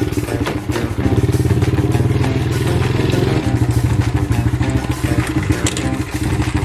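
Honda pit bike's small engine running steadily, easing off slightly about halfway through.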